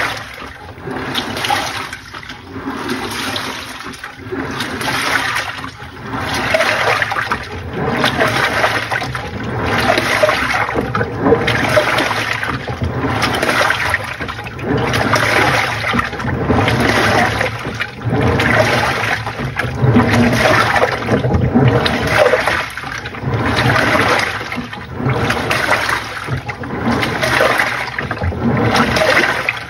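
Panasonic NA-FA80H8 top-loading washing machine agitating a load: water sloshing and churning in regular surges about every second and a half as the pulsator swings back and forth.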